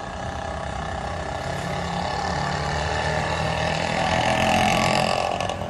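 Engine of a road vehicle running close by, its steady drone growing louder over several seconds and falling away near the end, as a vehicle passing on the street.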